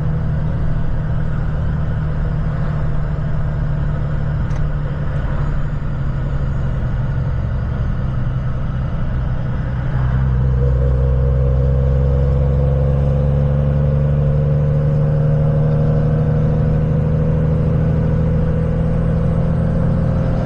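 An engine running steadily. About halfway through it gets louder and its pitch climbs slowly, as when it speeds up under load.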